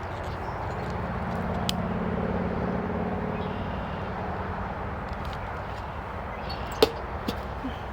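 Agitated honeybees buzzing in a low, steady drone around an opened hive. A sharp click sounds near the end.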